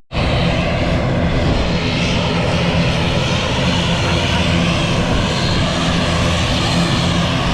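Airliner engines running loudly and steadily at close range, a dense rushing roar with a steady low hum. It cuts in abruptly just after a brief dropout at the very start.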